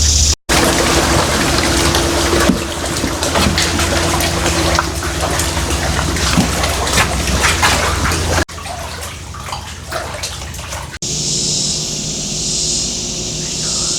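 Water running and splashing, an even rushing wash with many small splashes, which cuts off suddenly about eight seconds in.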